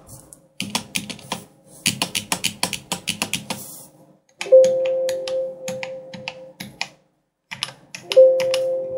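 Keys of an Everest Rampage KB-R88 mechanical keyboard being pressed in quick runs of clicks. About four and a half seconds in, and again near the end, a ringing chime from the computer sounds and fades, set off by the keypresses.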